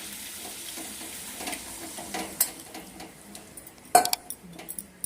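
Chicken in masala sizzling in a pan as water is added for it to cook, with metal utensil clinks and one sharp clank against the pan about four seconds in.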